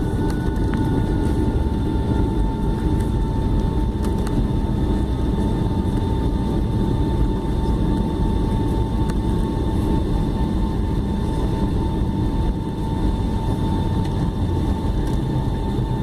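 Boeing 757 cabin noise on the ground just after landing: a steady deep rumble of the engines and the rolling airliner, with a thin steady whine above it.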